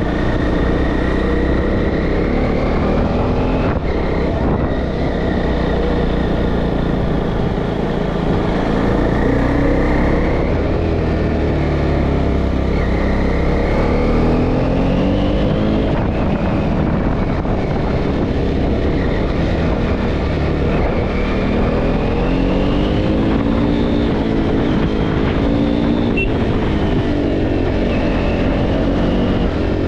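KTM Duke 390's single-cylinder engine running under way, its pitch rising and falling again and again as the throttle is opened and eased off. Steady wind rush on the microphone lies underneath.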